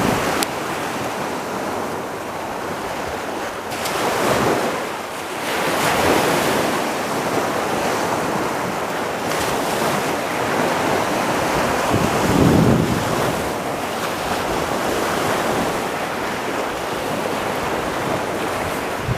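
Surf washing onto a beach, with wind gusting across the microphone; the wash swells louder a few times.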